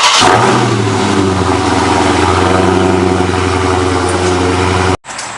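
Dodge Charger Scat Pack's 6.4-litre HEMI V8 on its stock exhaust, just started: the start-up flare dies down within the first half second and the engine settles into a steady fast idle. The sound cuts off abruptly about five seconds in.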